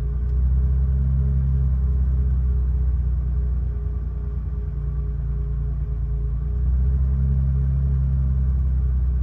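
1979 BMW 528i E12's 2.8-litre straight-six running steadily at idle while warming up after a cold start. The sound swells a little twice.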